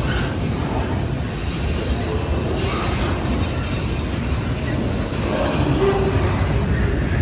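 Intermodal freight cars rolling past with a steady rumble of wheels on rail. A higher squeal or hiss from the wheels rises twice, about a second in and again about three seconds in.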